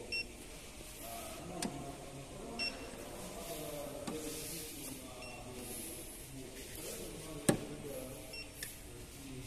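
Short electronic beeps repeating about every two and a half seconds, over muffled voices, with a few sharp clicks; the loudest click comes about seven and a half seconds in.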